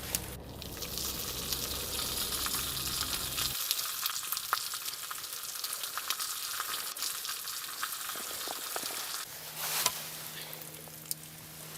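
Food sizzling and frying in a pan, a steady hiss with small crackles; a low rumble underneath drops out about a third of the way in.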